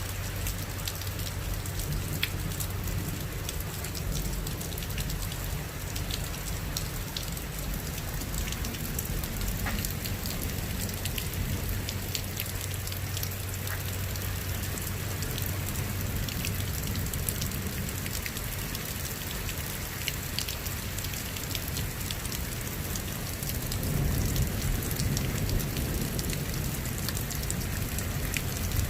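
Steady rain falling, with many small drop impacts pattering through it. A low steady hum sits under the first half, and a low rumble grows louder near the end.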